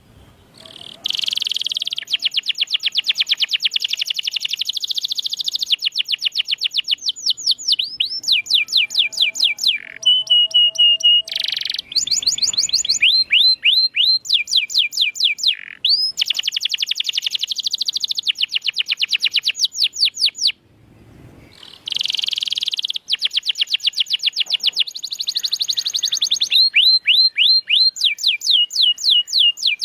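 Domestic canary singing: fast trilled rolls, each a long run of quick repeated high notes, changing from one run to the next, with a brief held whistle in the middle. The song stops briefly about a second in and again about two-thirds of the way through.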